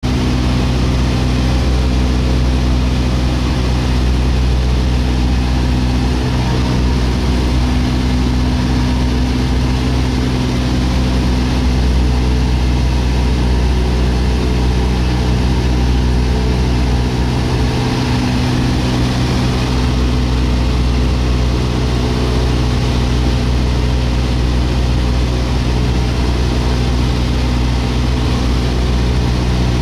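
Boeing 777 jet engines running with a steady low hum and several held low tones, the level barely changing throughout.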